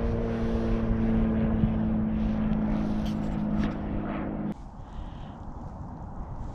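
A steady engine drone, its pitch sinking slowly, cut off abruptly about four and a half seconds in; after that only wind is left.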